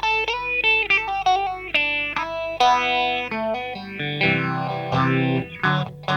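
Electric guitar played through a Madbean Nom Nom phaser pedal, a Phase 90–style four-JFET phaser. A run of picked notes gives way, about four seconds in, to chords with the phaser's sweep moving audibly through them.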